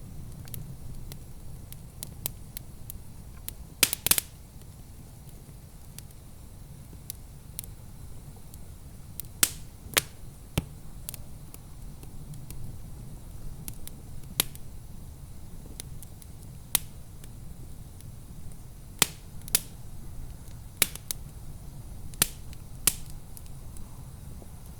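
Wood fire in a fireplace crackling, with sharp, irregular pops every second or two and a quick cluster of the loudest pops about four seconds in, over a steady low rumble.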